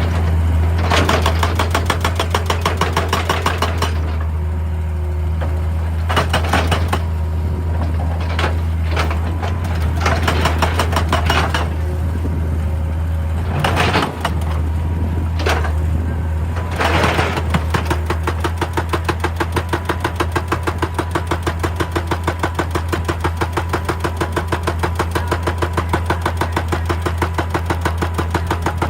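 Heavy hydraulic excavator working: its diesel engine runs steadily under load, with several bursts of crunching noise in the first half, then a regular pulsing of about three or four beats a second.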